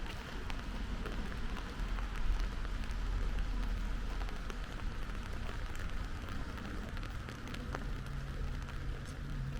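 Steady rain falling, with many individual drops ticking over an even hiss and a low rumble underneath. A low steady hum joins about eight seconds in.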